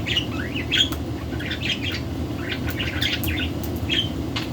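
Pet budgerigars chirping and chattering in quick, short rising and falling calls, over a steady low hum.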